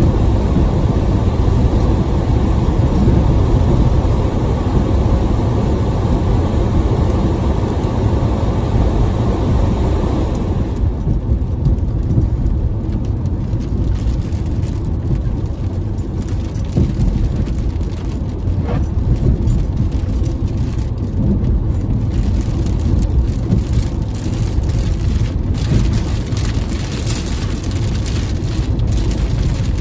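Steady low road and engine rumble inside a moving car driving through a rainstorm, with rain hiss over it. About eleven seconds in the hiss drops away, leaving the rumble with scattered light ticks.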